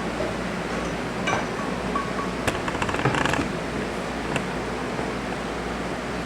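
Cordless phone handset being handled: scattered clicks of buttons and plastic, with a short key beep about two seconds in, over a steady background hiss.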